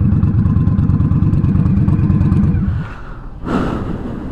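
Indian Scout Bobber Sixty's V-twin engine running with a fast, pulsing exhaust rumble, which stops about three seconds in.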